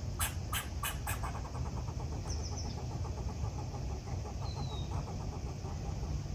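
Outdoor ambience with a steady low rumble, like distant traffic. In the first second come four short, loud harsh calls, then faint ticking. Birds chirp briefly: a quick high trill about two seconds in, and a thin falling whistle a little past four seconds.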